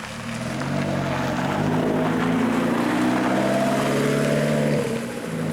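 A car engine under throttle, its pitch climbing over the first couple of seconds, then holding steady before it drops away about five seconds in.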